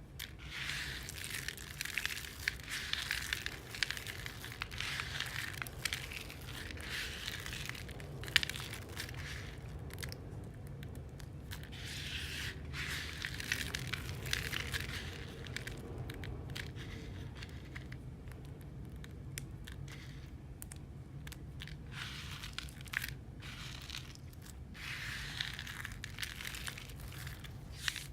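Dry, crispy soap being crushed and crumbled, a crackling crunch that comes in waves. It eases off in the later middle and picks up again near the end.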